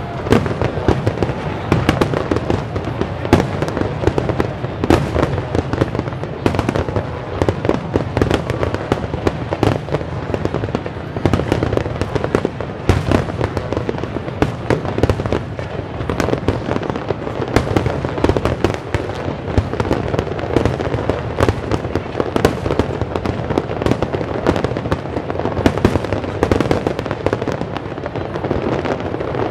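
Aerial fireworks display: a steady barrage of shell bursts, dense overlapping bangs and crackles several times a second over a continuous low rumble.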